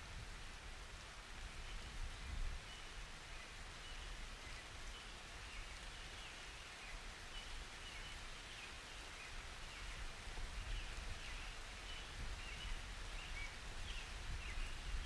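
Steady summer rain with birds chirping again and again through it.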